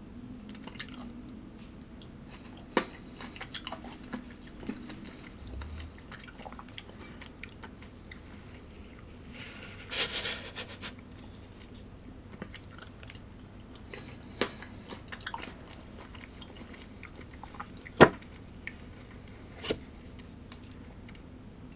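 A person biting and chewing food close to the microphone, with crunching and scattered sharp clicks, the sharpest about eighteen seconds in.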